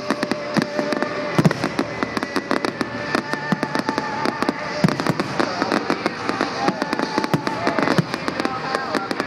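Fireworks display going off: a dense, rapid run of bangs and crackling pops throughout.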